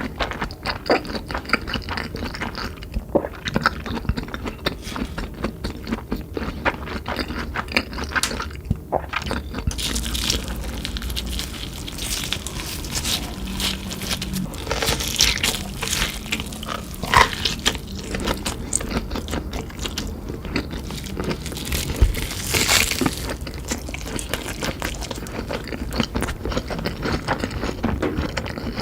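Close-miked crunching and chewing of crunchy food, likely Cheetos-crusted meat fingers, as eating sounds. It is a steady run of irregular crackly crunches, with a few louder bites scattered through.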